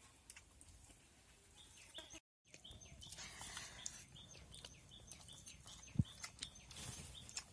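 A bird chirping over and over, short falling high notes about three a second, with a single sharp knock about six seconds in.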